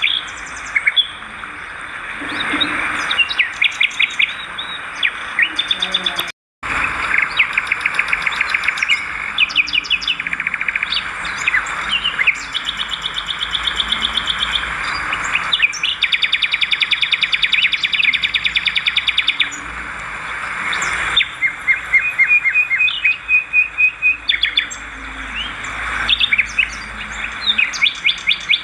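Swiftlets calling: rapid chirping trills repeated over and over, with a brief cut-out about six seconds in.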